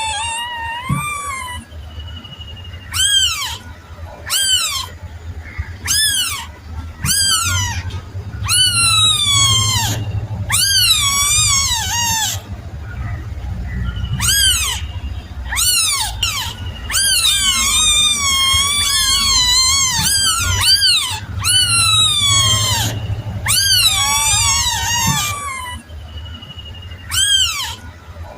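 Kitten meowing over and over in short, high cries that rise and then fall in pitch, some of them in quick runs.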